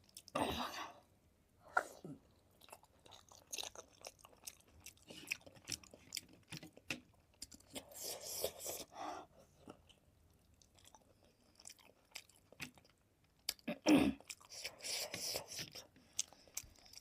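Close-miked chewing of a big steamed momo dumpling: many small mouth clicks, with louder bursts of chewing about half a second in, around the middle and near the end.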